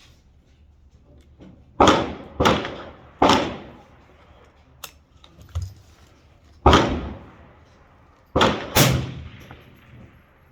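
Six single semi-automatic shots from a PSA M4-clone AR-15 rifle in 5.56, fired at an uneven pace (three in quick succession, then three more after a pause), each with a short ringing echo. Two much fainter sharp cracks fall in the gap.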